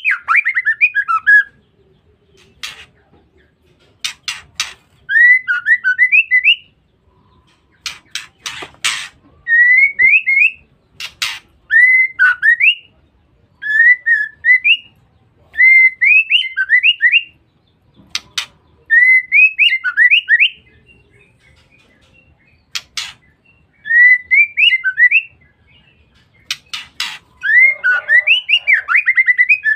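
Female white-rumped shama (murai batu) calling in short phrases of two or three quick rising-and-falling whistled notes, repeated every two to three seconds, with sharp clicks between the phrases.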